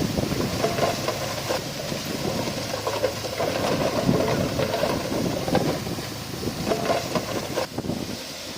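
Diesel engine of heavy earthmoving equipment running, with irregular clanks and rattles over the engine sound, easing off a little near the end.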